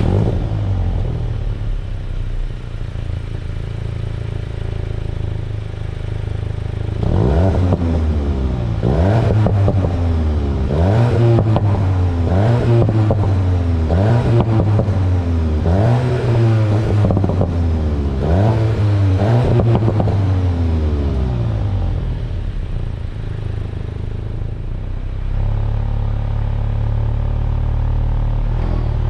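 VW Golf GTI Clubsport's turbocharged 2.0-litre four-cylinder engine idling, then revved about eight times in quick succession, each rev rising and falling back, before settling to idle again.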